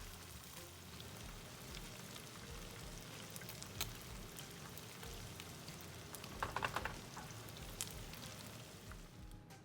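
Oil sizzling and crackling steadily as beer-battered fish pieces fry, with a brief louder rattle about six and a half seconds in.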